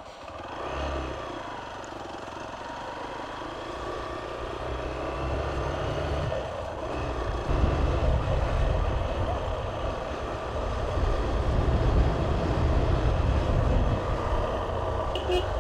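Motorcycle riding along, its engine running under a low rumble of wind and road noise, growing louder over the first several seconds and then holding steady.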